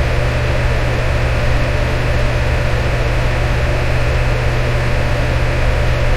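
Electric fan running steadily: an even whooshing rush of air over a deep, constant motor hum.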